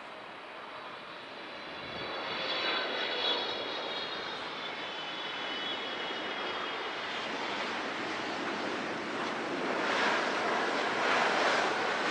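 Airplane engine noise passing: a steady rushing sound with a faint high whine that slowly falls in pitch, growing louder about two seconds in and again near the end.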